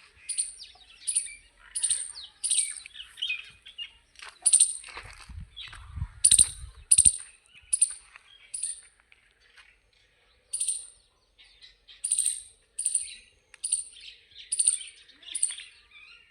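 Small bird chirping over and over, short sharp calls about one and a half a second, with a brief low rumble near the middle.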